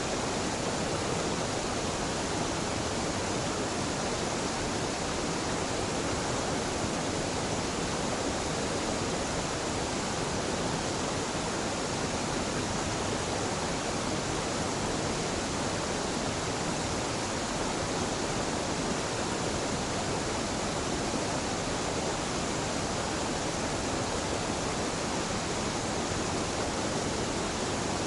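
Mountain stream waterfall pouring steadily: an even, unbroken rush of falling water.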